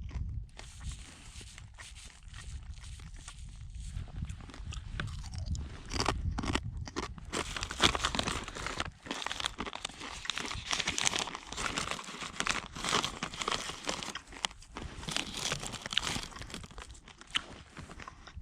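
Crunchy dried reindeer-meat chips being chewed close to the microphone, an irregular crunching that grows louder about six seconds in.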